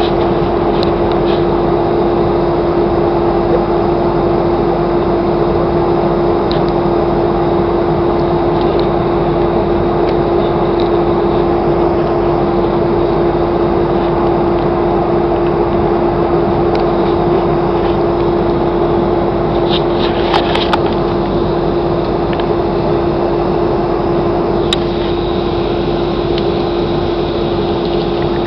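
Airliner cabin noise: a steady rush of engine and air noise with a constant droning hum. It does not change, and there are a few faint clicks about two-thirds of the way through and again near the end.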